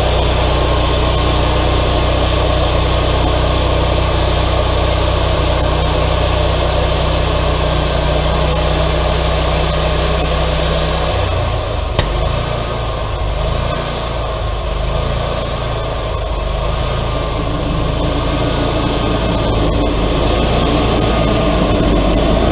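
Wood-Mizer LT40 hydraulic sawmill running, its engine and band-saw head giving a steady drone. About halfway through the tone changes, with one sharp click.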